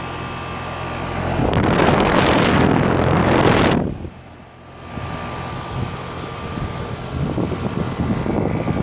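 2011 Rheem air conditioner's outdoor unit running with its Copeland scroll compressor: a steady hum with a faint high whine. About a second and a half in, a loud rushing noise covers it for about two seconds and cuts off suddenly, after which the steady running returns.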